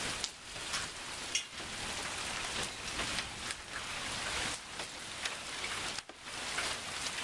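Steady heavy rain, with drops striking close by as quick, irregular ticks.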